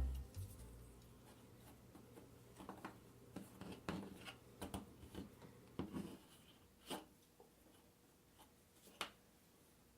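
Faint, irregular soft clicks, taps and rubs of cardboard jigsaw puzzle pieces being handled and pressed into place on a tabletop, with the tail of a music track dying away at the very start.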